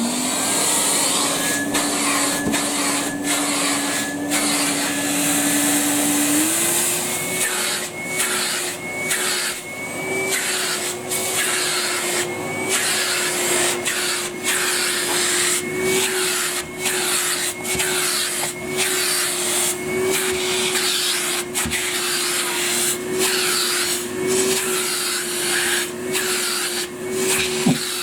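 Numatic Henry vacuum cleaner running, its motor having just spun up. About six seconds in, the motor's pitch steps up. After that the rush of suction keeps breaking off briefly, over and over, as the nozzle works over the dusty filter.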